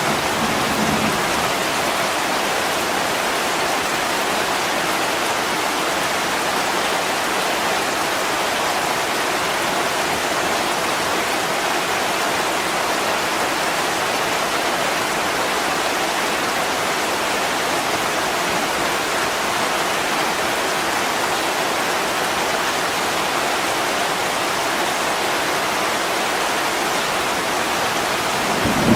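Steady heavy rain pouring on window glass, an even unbroken hiss. A low rumble of thunder fades out in the first second, and another begins right at the end.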